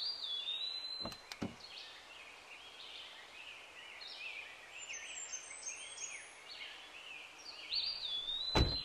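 Birds chirping and whistling over a low outdoor background, with one clear whistled call that drops and then holds, heard at the start and again near the end. Two faint knocks come a little after one second, and a sharper thump just before the end.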